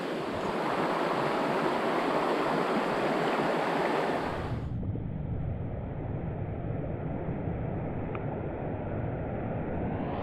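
Steady rush of creek water. About four and a half seconds in, the sound turns suddenly dull and muffled with a low rumble, then opens out again near the end.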